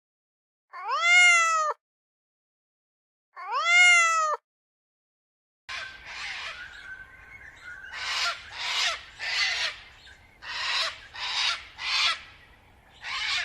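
Two drawn-out animal calls, each about a second long, rising then falling in pitch, meow-like. Then, in a different clip, a run of rough, breathy animal calls, about seven in five seconds.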